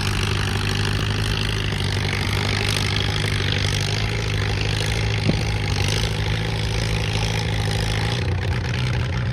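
Pulling tractor's engine running at a steady, unchanging pitch, with a single sharp click about five seconds in.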